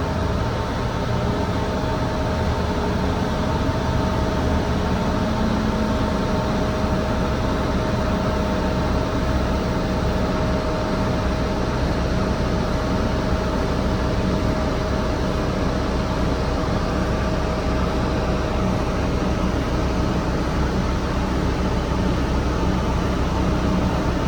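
A city bus running, heard from on board: a steady low rumble of engine and road noise with a faint, even whine.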